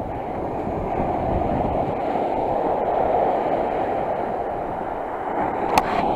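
Steady rumbling noise of a vehicle in motion, with a few sharp clicks near the end.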